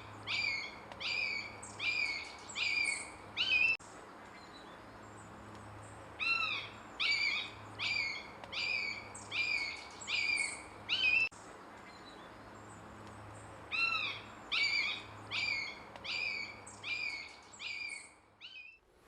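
Young common buzzards calling: series of high, down-slurred calls, about one and a half a second, in three runs of six or seven calls separated by short pauses.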